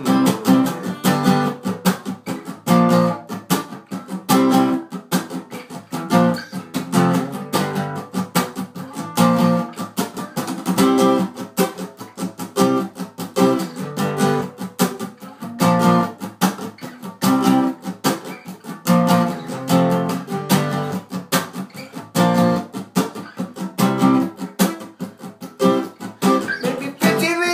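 Acoustic guitar played solo in a steady rhythmic strum with sharp percussive hits: an instrumental break between sung verses.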